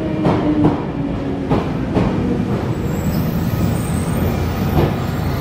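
Limited express electric train pulling in along the station platform: a steady rumble of wheels on rail, with irregular clacks as the wheels cross rail joints.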